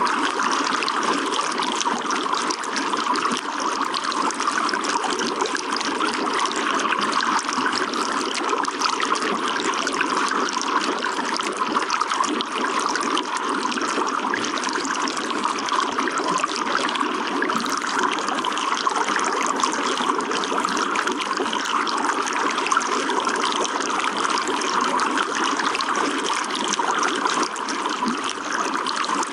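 Running water trickling and splashing steadily, an even, unbroken rush.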